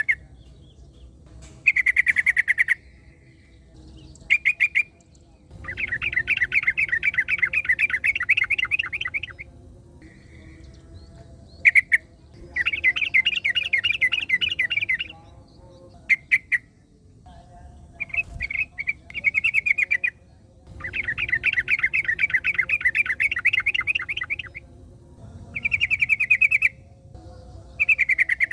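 Yellow-vented bulbul (trucukan) singing: repeated bursts of rapid chattering notes, some brief, some running three to four seconds, with short pauses between them.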